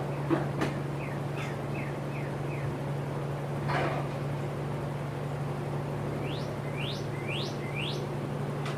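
Small birds chirping: a run of short falling chirps, then four quick rising calls near the end, over a steady low hum, with a few light knocks in the first few seconds.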